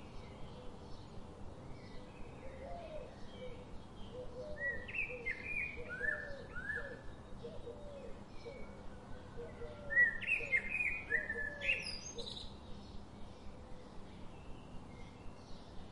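Several birds chirping and singing, with a steady run of short chirps about two or three a second. Louder bursts of song come about five seconds in and again around ten seconds.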